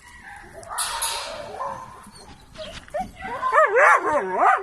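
A dog whining and yipping: a run of high, wavering cries that rise and fall in pitch, starting about three seconds in, after a stretch of rustling noise.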